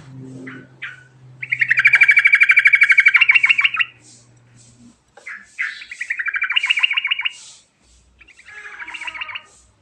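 Yellow-vented bulbul (trucukan) singing three loud phrases of fast, rattling trills, the bird rolling through its song.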